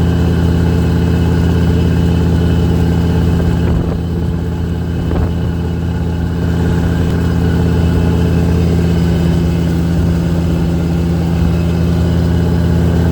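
Boat engine running steadily at constant speed, an even low-pitched hum.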